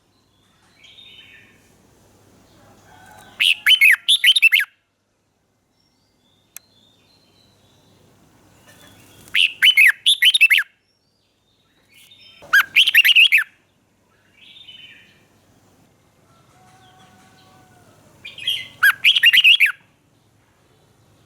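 Red-whiskered bulbul singing: four short, loud phrases of quick warbled notes, several seconds apart, with fainter chirps between them.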